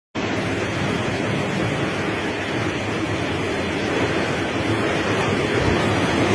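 Heavy rain and strong wind in a storm: a steady rushing noise that grows slightly louder near the end.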